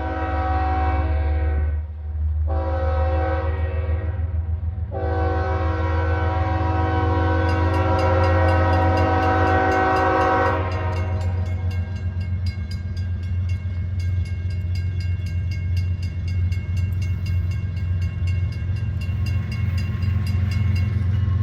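Diesel locomotive sounding its air horn in three blasts, the last held about five seconds, over the engine's steady low rumble. After the horn stops, the rumble continues with a fast, regular clicking as the train passes.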